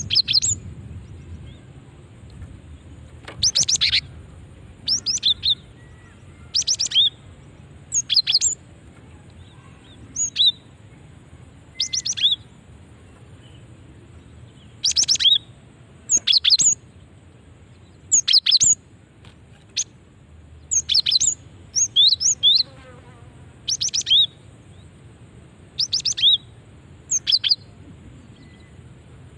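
Female cinereous tit (gelatik batu) calling: short bursts of high, sharp, quickly falling notes, repeated every one to three seconds. This is the female's call that is used to lure males.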